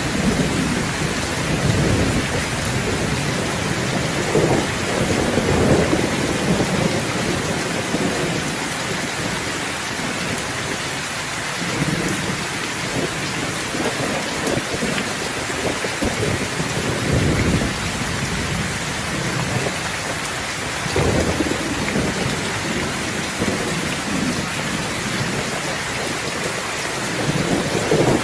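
Steady heavy rain falling in a thunderstorm, with low rolls of thunder rumbling through it again and again, a few seconds apart.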